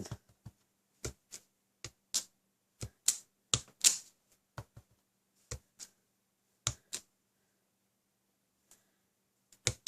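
Acrylic stamp block tapping repeatedly onto an ink pad and stamping onto cardstock: sharp clicks, often in quick pairs, with a pause near the end.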